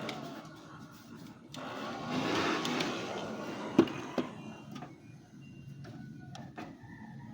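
Handling noise from PC parts being cleaned: a swell of rushing, scraping noise, then a sharp click about four seconds in and a smaller one just after, followed by quieter rubbing and faint ticks.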